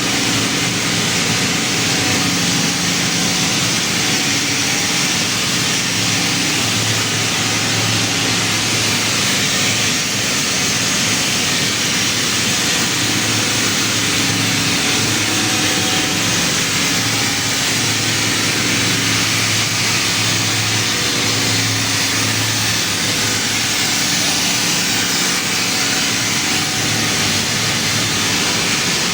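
Kaeser air compressor running steadily: a constant low machine drone over a strong airy hiss.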